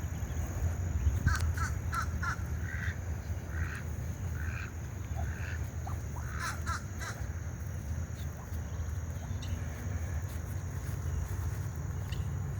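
A bird giving a run of about ten short calls over several seconds, then falling quiet, over a steady low rumble.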